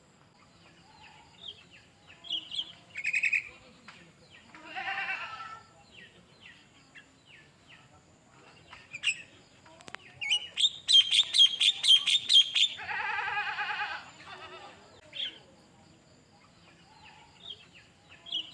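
Songbird singing a varied song: scattered short chirps and whistles, a harsh rattling phrase about five seconds in, then past the middle a fast run of repeated bright notes followed straight away by another harsh rattle.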